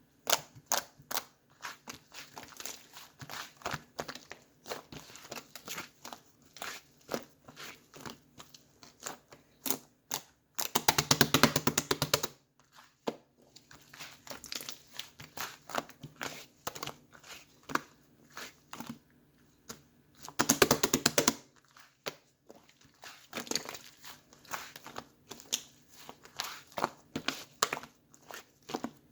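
Slime being squished and pressed by hand, making sticky crackling clicks and pops, with two stretches of rapid-fire popping about eleven and twenty seconds in.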